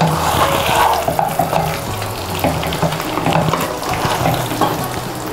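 Chicken lollipop Manchurian in its thickened sauce, sizzling and bubbling steadily in a pan on the stove.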